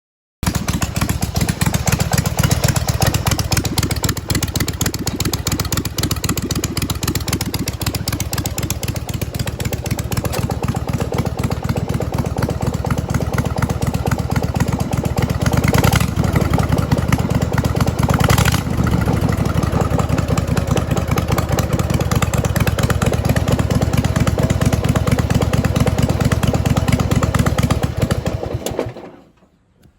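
Twin-cylinder engine of a racing lawnmower running loud and unmuffled, with its governor removed, with a rapid steady firing beat and a couple of brief swells in the middle. Near the end it is shut off and dies away.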